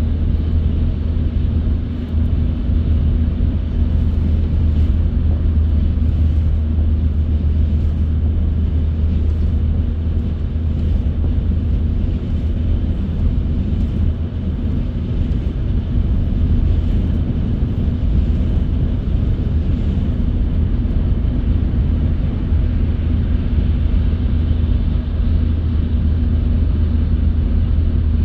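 Car driving at steady speed: a constant low drone of engine and road noise with a steady hum above it.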